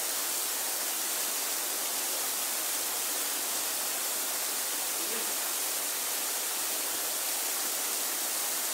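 Waterfall: steady, even rushing of falling water, with no breaks.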